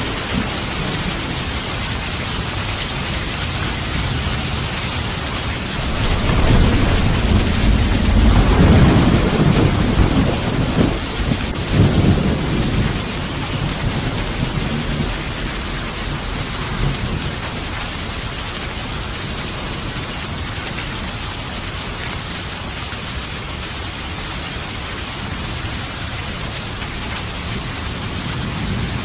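Steady heavy rain, with a long roll of thunder that builds about six seconds in, peaks twice and rumbles away by about thirteen seconds.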